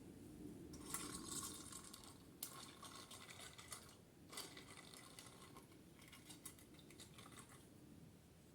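Faint handling noises: small hard objects clicking, scraping and rustling in several short bursts.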